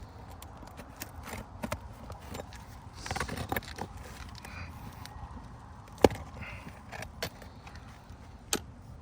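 Scattered scraping and sharp clicks of a hand tool working under brittle roof shingles to pull out the nails, with a burst of scraping about three seconds in and the sharpest click about six seconds in.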